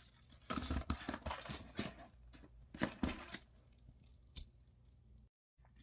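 Small metal tools clinking and rattling as they are rummaged through and handled, with scattered sharp clicks and short rustles.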